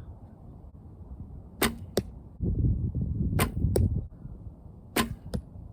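Three arrows shot from a 35-pound Bear recurve bow, each a sharp snap of the string followed about a third of a second later by the arrow striking the target. A low rumble sits under the middle shot.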